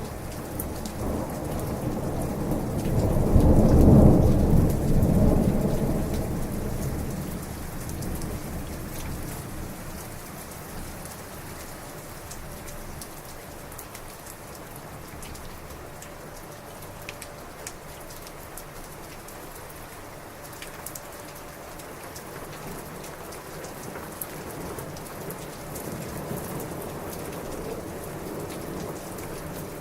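Heavy rain falling steadily with scattered drop ticks, as a long roll of thunder swells in about a second in, peaks a few seconds later and rumbles away; a fainter low rumble returns near the end.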